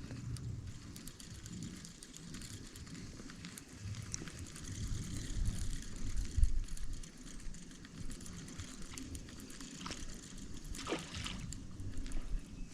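Rain pattering, with water sloshing and splashing as a hooked bass is reeled in and landed. A low, uneven rumble of handling noise on the microphone runs underneath.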